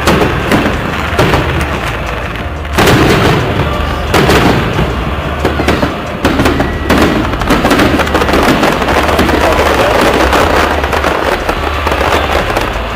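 Fireworks salute going off: a dense run of booms and crackling bursts, with a sudden louder burst about three seconds in.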